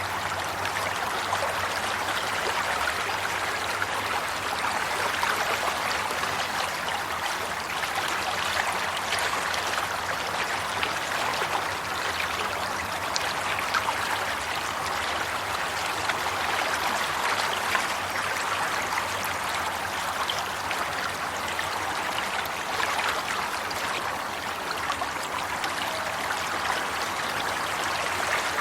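Water flowing steadily in a stream, an even rushing with fine splashing and trickling detail.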